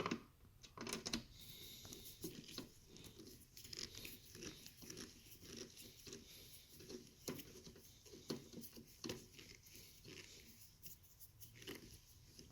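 Faint, scattered clicks, taps and light scrapes of hands and tools working a cover off a Briggs & Stratton 190cc mower engine.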